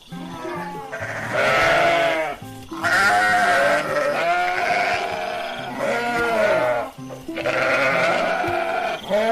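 Sheep bleating repeatedly in several long, wavering calls, over background music.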